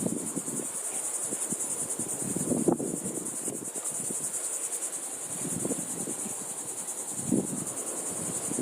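Insects trilling in a steady, high-pitched chorus with a fast, even pulse.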